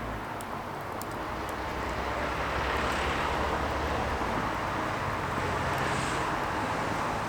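Firewood burning: a steady rush of flames with a few sharp crackles and pops, most of them in the first second or two.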